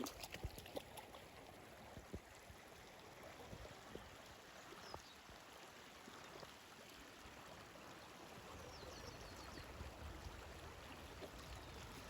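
Faint, steady rush of running stream water, with a few light knocks and clicks in the first second.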